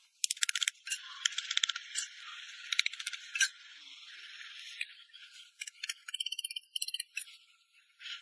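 Runs of rapid light tapping or rattling clicks, many a second, in short bursts with pauses between them and a faint hiss underneath.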